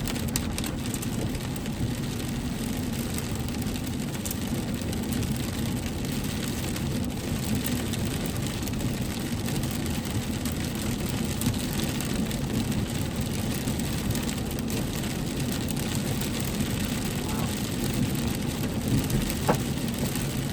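Steady low rumble of a vehicle's engine and tyres heard from inside the cab while driving.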